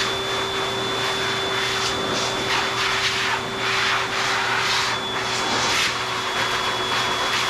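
AIIYME high-velocity dog grooming dryer (4.3 HP, 3200 W) blowing at a steady level: a constant motor whine under a rush of air that swells and fades as the nozzle is moved over the dog's wet coat.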